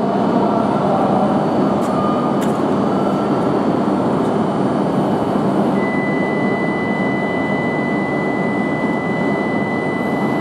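Hayabusa shinkansen train running slowly alongside the platform: a loud, steady rush of running noise. A thin, high, steady tone joins about six seconds in.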